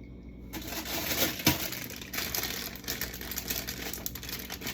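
Plastic packaging rustling and crinkling as food items are handled and sorted, with small clicks and a light knock about a second and a half in.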